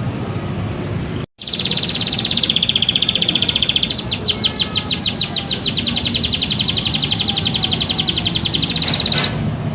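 Recorded songbird song for bird training: a fast, high trill, broken by a short silent edit a little over a second in. It then turns into a long run of sharp repeated notes, about eight a second, for some five seconds, over a low background rumble.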